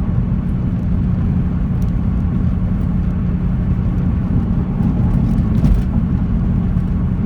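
2007 Ford Mustang GT's 4.6-litre V8 running at a steady cruise, heard from inside the cabin along with road and tyre noise.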